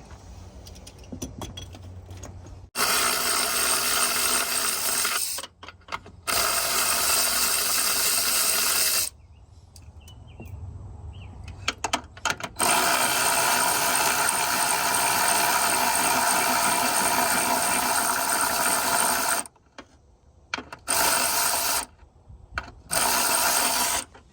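Cordless electric ratchet running in repeated bursts, spinning off the brake booster's mounting nuts. It makes five runs of one to seven seconds, the longest in the middle, with a few short clicks in the gaps.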